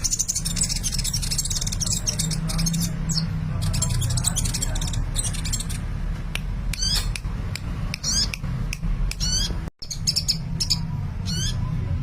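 Sunbird singing energetically: bursts of high, rapid twittering and short repeated chirps, over a steady low hum.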